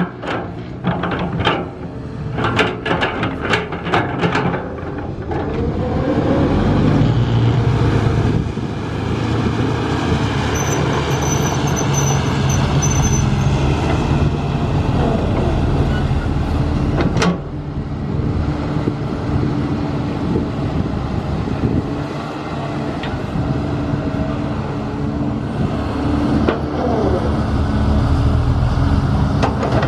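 Heavy construction vehicle engine running steadily, with a quick series of clanks in the first few seconds and a single sharp knock about halfway through.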